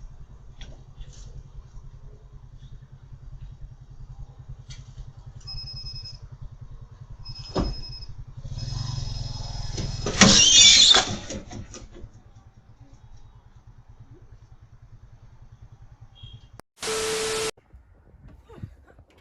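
Vehicle engine running steadily, with a series of high electronic beeps. About ten seconds in comes a loud, crashing burst of noise, the loudest sound here, and near the end a short flat burst of noise.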